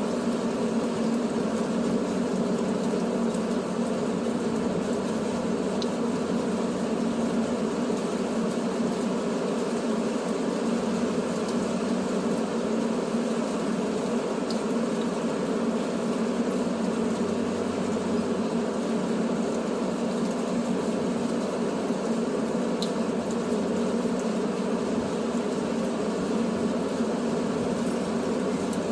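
Steady drone of a truck engine running, even and unchanging, with a few faint clicks.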